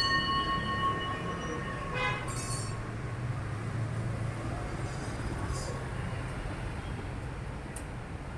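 Street traffic. A ringing tone is fading out at the start, a short horn toot comes about two seconds in, and then a vehicle's engine hums low as it passes.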